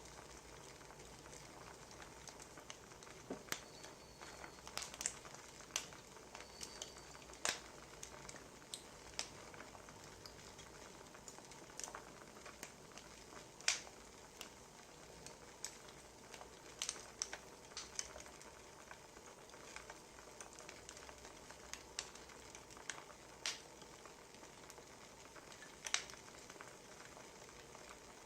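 Wood fire crackling: irregular sharp pops and snaps over a faint steady hiss, with two brief high whistles a few seconds in.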